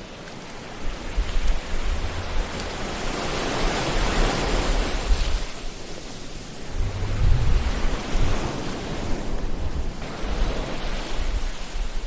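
Ocean surf: a steady hiss of waves that swells and ebbs, building to a peak about four seconds in and again about seven seconds in, with a low rumble underneath.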